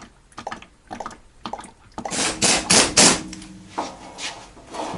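Light metal tool clicks, then a run of short, loud bursts from an air tool, a pneumatic wrench, loosening driveshaft bolts about halfway through.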